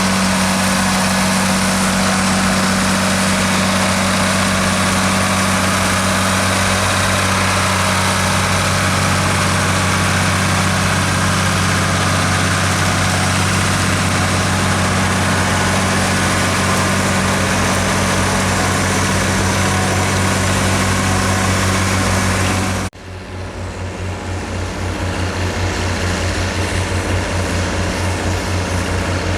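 Diesel tractor engine running steadily with a deep, even hum. About three-quarters of the way through the sound cuts off abruptly and is replaced by a quieter engine with a distinct pulsing chug that grows louder again.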